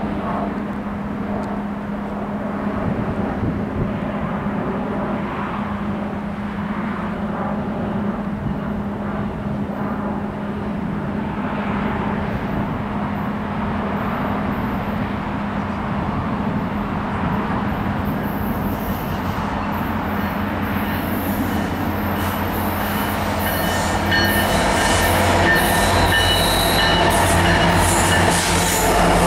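Norfolk Southern freight train passing, led by diesel-electric locomotives (EMD SD70M-2s and a GE D9-44CW) running with a steady engine drone. From about eighteen seconds in, the freight cars roll by with growing wheel-on-rail clatter and squeal, louder near the end.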